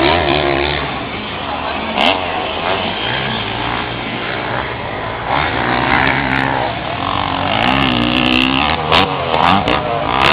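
Motocross dirt bike engines revving up and down, the pitch rising and falling several times as the bikes ride the track, with a couple of sharp knocks.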